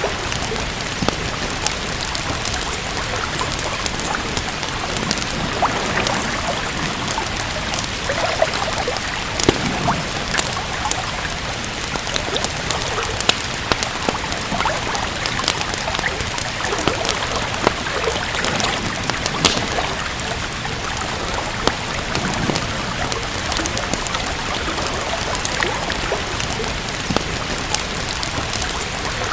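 Steady rain with frequent small sharp crackles and pops from a wood fire in a fireplace.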